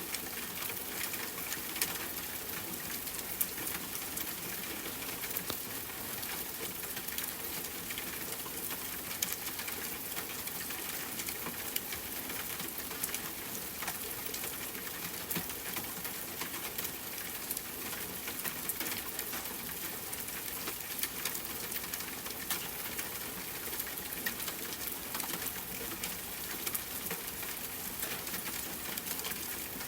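Rain falling steadily on a tent: a constant hiss with many scattered sharp ticks, mixed with a crackling campfire.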